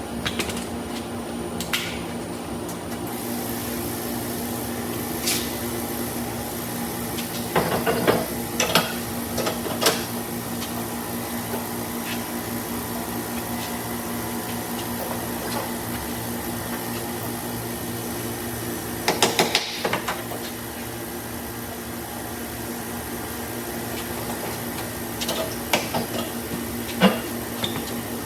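Steady mechanical hum of a running motor, with occasional knocks and clatters of handled metal parts in a few short clusters.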